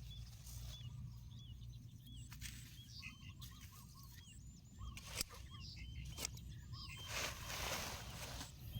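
Small birds chirping in repeated short, curved notes, with bursts of rustling and a few sharp clicks; a steady low rumble runs underneath.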